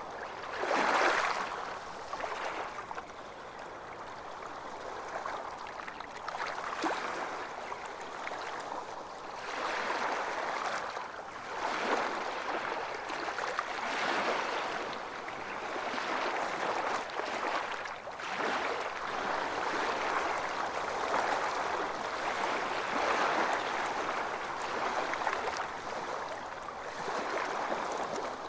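Ocean waves washing onto a beach, a steady hiss of surf that swells and ebbs every few seconds, with one louder wash about a second in.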